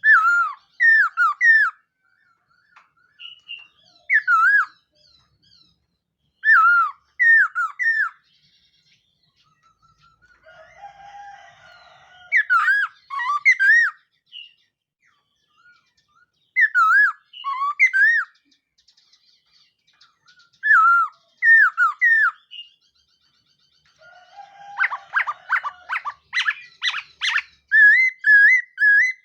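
Laughingthrush singing: short phrases of two to four looping whistled notes every few seconds, with a faster, busier run of notes near the end.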